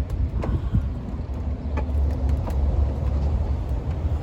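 Wind buffeting the microphone, a steady low rumble, with a few light clicks and taps of parts being handled.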